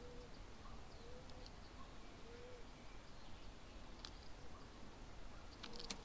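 Faint, soft cooing notes from a distant bird, low and arched, about one a second for the first half, over steady outdoor hiss. A single sharp tap about four seconds in and a quick cluster of sharp clicks just before the end.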